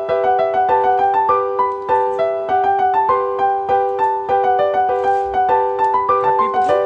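Background piano music: a gentle, quick run of single notes over one note that is repeated steadily underneath.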